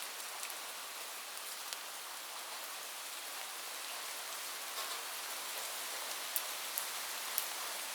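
Steady heavy rain falling on a roof, with a few sharper ticks of single drops standing out, mostly in the second half.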